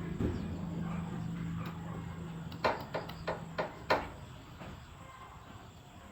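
A steady low hum that fades out a little past the middle, with a quick run of about five sharp knocks over roughly a second just before it stops.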